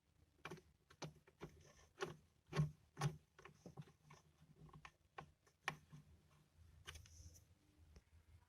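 Faint, irregular clicks and light knocks, a dozen or so, from small hard parts being handled, with the loudest pair about two and a half to three seconds in.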